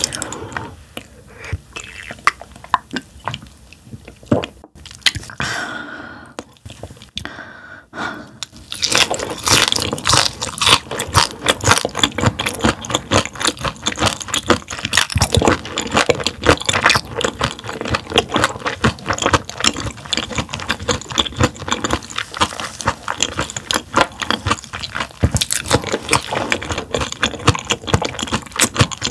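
Close-miked chewing of raw gizzard shad, crunching crisply. It is softer for the first several seconds, then turns into dense, rapid crunches.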